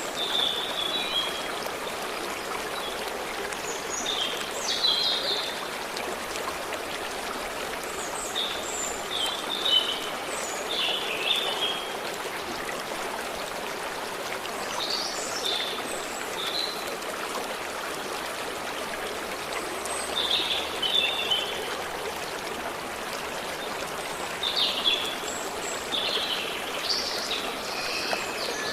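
A stream flowing with a steady rush, while small songbirds chirp in short phrases every few seconds.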